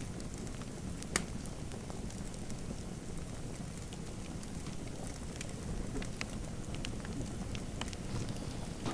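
Fireplace fire crackling: a steady low rumble with scattered sharp pops and snaps, one loud pop about a second in and more pops in the second half.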